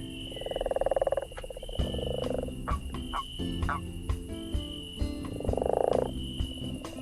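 Frogs croaking in short pulsed calls, four in all, each under a second long, over the snapping crackle of a campfire.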